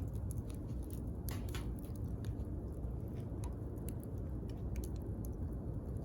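Wood campfire crackling, with scattered sharp pops, a few louder ones about a second and a half in, over a steady low rumble.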